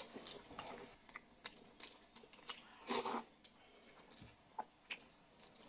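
Faint chewing and eating noises: scattered soft mouth clicks, with one brief louder sound about three seconds in.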